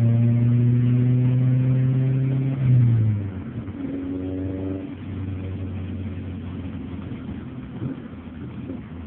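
Honda Prelude four-cylinder DOHC VTEC engine held at steady revs, rising briefly before dropping back about three seconds in. It then gives one short blip of the throttle and settles to idle. The engine struggles to rev and has low power with a loud intake hiss, which the owner suspects comes from a vacuum leak or a catalytic converter fault.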